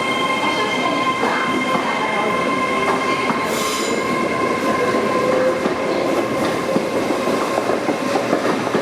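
Train moving on the rails with a steady high-pitched squeal and a rattle of small clicks from the wheels. A brief hiss comes about three and a half seconds in.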